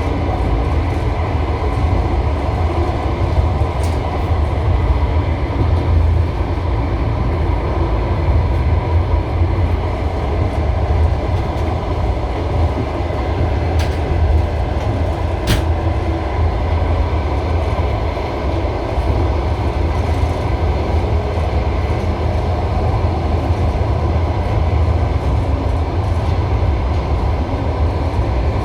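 Passenger railway carriage rolling along the track, heard from inside: a steady low rumble of wheels on rails, with a few sharp clicks.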